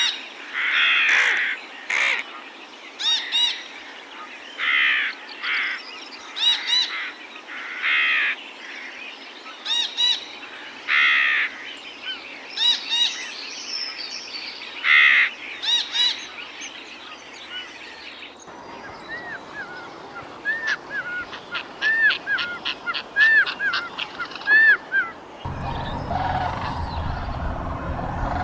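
Birds calling: a series of harsh, repeated calls mixed with high whistled notes, then after a sudden change a quick string of short, arching chirps. Near the end a steady low background noise comes in, with softer calls over it.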